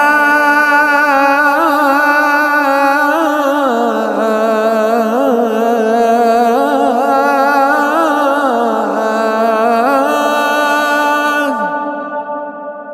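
Adhan (Islamic call to prayer) sung by a male muezzin: one long drawn-out phrase with wavering melismatic ornaments. The voice stops about 11.5 seconds in, and its echo lingers and fades away.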